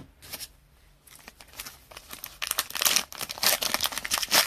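Trading-card pack wrapper crinkling and tearing as the next pack is opened: a run of quick crackles that starts about a second in and grows louder from about halfway.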